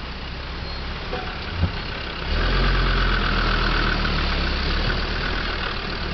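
Land Rover Discovery II engine running at low revs as the vehicle creeps over grass, with a single knock about one and a half seconds in. The engine grows clearly louder a little over two seconds in, as the vehicle comes alongside, and then holds steady.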